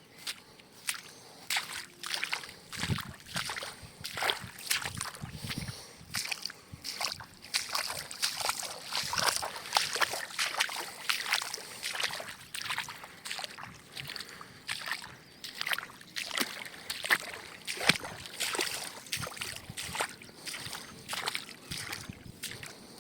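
Water sloshing and splashing in quick, irregular strokes, several a second.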